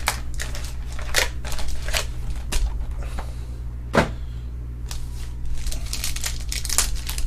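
Trading cards being handled and sorted by hand: a series of light clicks and rustles, with one sharper click about four seconds in, over a steady low hum.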